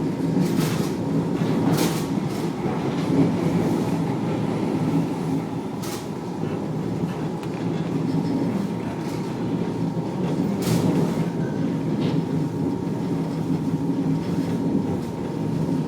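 Heard from inside an Alstom Citadis tram running between stops: a steady rumble of wheels and running gear with a faint constant whine, and a few sharp clicks spread through it.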